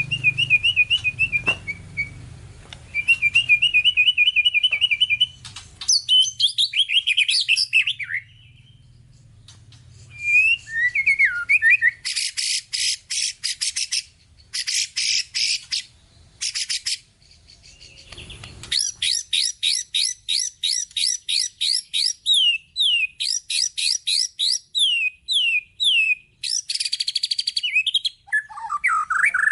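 White-rumped shama (murai batu) singing a long varied song full of mimicked phrases: trilled runs, a stretch of fast rasping chatter about twelve seconds in, then long series of quick downward-sweeping whistled notes.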